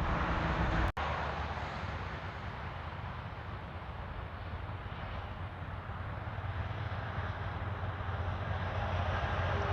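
Road traffic: heavy truck engines running low with tyre and road noise. The sound cuts out for an instant about a second in, then is quieter and builds again toward the end as another vehicle approaches.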